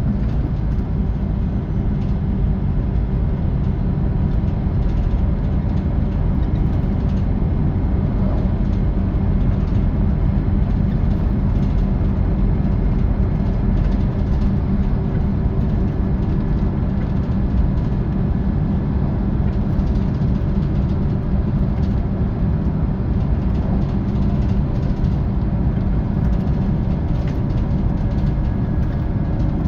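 Scania K450 coach's 13-litre six-cylinder diesel running steadily under way, heard from inside the bus with road and tyre noise. The engine note is even, with a small shift in pitch right at the start.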